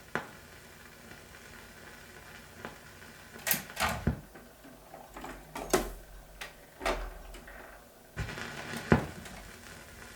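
Surface noise of a 78 rpm shellac record between selections: a faint steady hiss broken by scattered sharp clicks and pops, some with a brief low thump.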